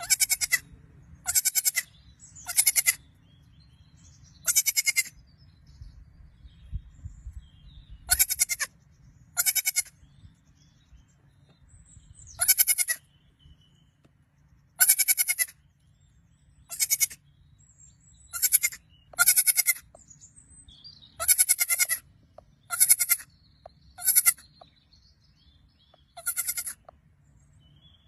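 Goat kid bleating over and over, about fifteen short, high-pitched, quavering cries at irregular gaps of one to three seconds.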